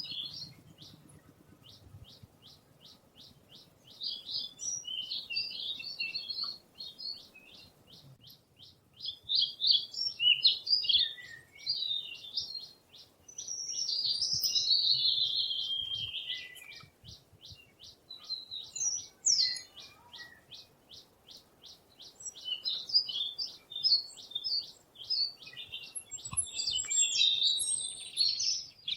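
Small songbirds at a feeder chirping and singing: a fast, even series of high chips runs throughout, with louder warbled song phrases coming and going over it.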